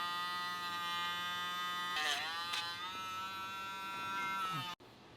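Electric dog nail grinder running with a steady whine. About two seconds in its pitch dips briefly with a gritty burst as the spinning drum is pressed against a nail and slows under the load. It cuts off suddenly near the end.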